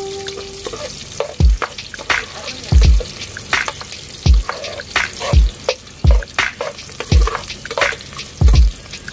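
Garlic and onions sizzling in hot oil in a wok while a metal spatula stirs them, scraping and knocking against the pan over a dozen times, each stroke with a dull thump.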